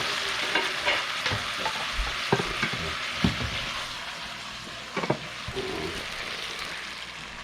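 Razor clams stir-frying in a hot pan: a steady sizzle that slowly dies down, with a utensil knocking and scraping against the pan every second or so.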